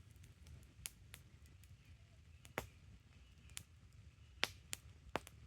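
Wood campfire burning with a low rumble of flames and soft, irregular crackles and pops, a handful of sharper snaps among them.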